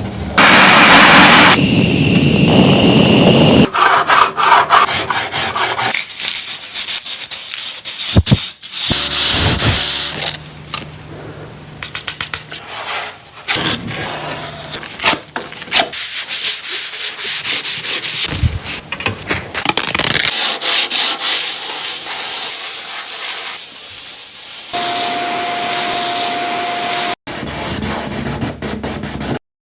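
Sanding and rubbing on a car's bodywork in a series of short passes, the texture changing abruptly several times.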